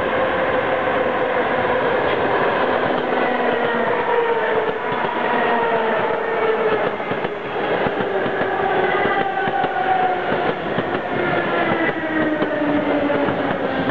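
A multi-car suburban train passing close at speed: steady wheel-and-rail noise with a clatter of wheels over rail joints, and a series of whines that slide down in pitch as the cars go by.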